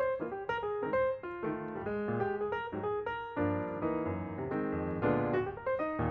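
Background music: a piano playing a quick, busy melody of short notes over sustained lower chords.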